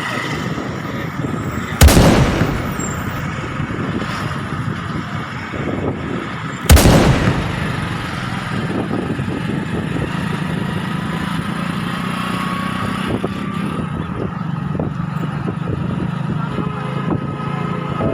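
Two sudden loud bangs about five seconds apart, each dying away over about a second, over a steady noisy background.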